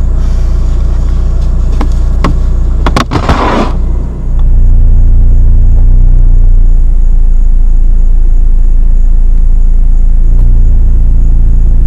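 Car engine and cabin rumble heard from inside the car as a steady low drone. About three seconds in it is broken by a few sharp clicks and a brief rustle, then the low rumble carries on steadily with the car stopped.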